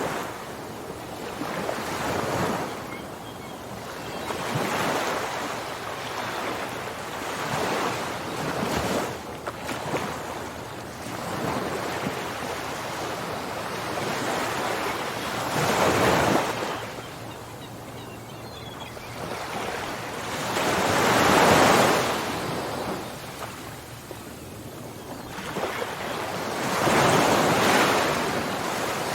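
Ocean surf: waves breaking and washing in, swelling and ebbing every few seconds, the biggest surges about halfway through and again near the end. Some wind noise on the microphone.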